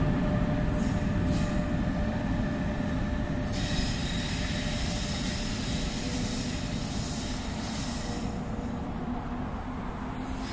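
NJ Transit passenger train rolling through on the rails: a steady rumble with a thin squeal from the wheels, gradually fading. A brighter hiss rises in about a third of the way in and drops away near the end.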